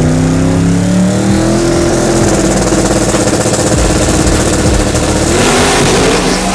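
Drag racing cars at full throttle making a pass down the strip: the engine pitch climbs in the first couple of seconds, then the engines run flat out as one loud, dense noise, which rises once more and falls away near the end.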